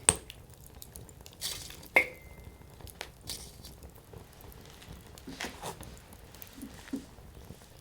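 Firewood fire crackling, with scattered small pops and two loud sharp pops, one just after the start and one about two seconds in, the second followed by a brief ringing.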